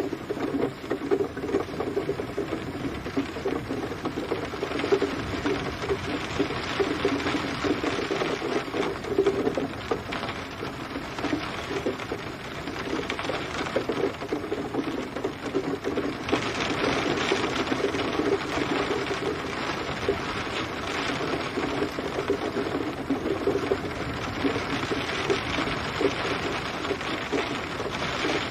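Steady rain falling, a dense patter of drops hitting a surface, with no thunder.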